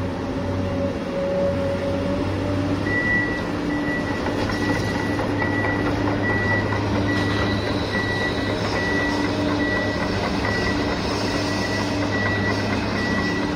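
Toy RC excavator working, its electric motors giving a steady hum, with a high beep repeating in short, even pulses from about three seconds in.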